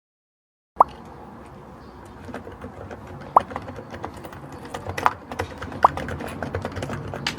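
Typing on a keyboard fitted with handmade chicken-shaped keycaps. A steady run of key clicks starts about a second in, with a few louder strokes every second or two that ring briefly.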